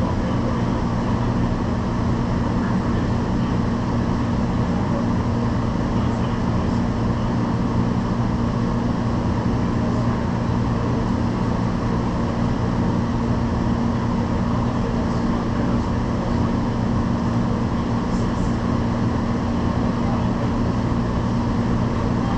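Steady interior hum and rumble of a light-rail train car, a constant drone without sudden events.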